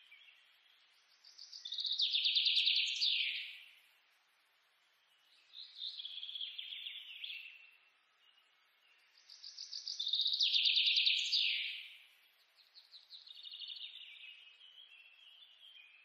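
A bird singing: four trilled phrases of rapid repeated notes, each about two seconds long and ending in a quick downward sweep, repeated every three to four seconds.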